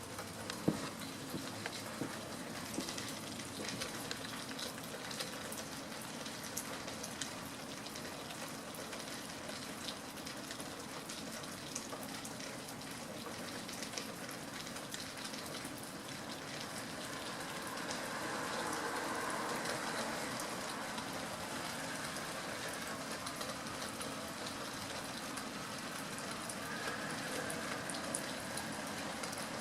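Steady rain falling, with a dense patter of small drop impacts. A broader rushing noise swells up a little past halfway and then eases back.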